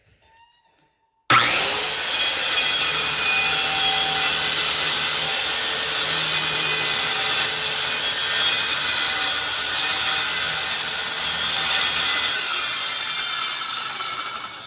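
Handheld electric circular saw switched on. Its motor spins up within a moment to a steady high whine as the blade cuts along a wooden board, then the sound tails off and stops near the end.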